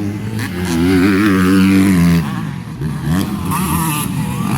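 Motocross dirt bikes racing, their engines revving up and down in pitch. The loudest rev runs from about half a second to two seconds in, then falls away before more bikes rev again.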